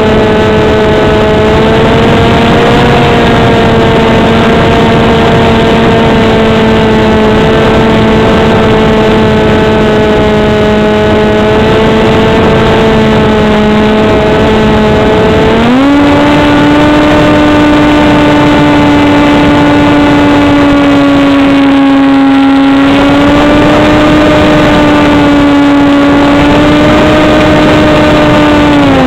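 RC foam flying wing's motor and propeller running at steady throttle, heard close up from the wing camera over heavy wind rush. About halfway through the pitch jumps up as the throttle is opened, holds with small wavers, and drops back near the end.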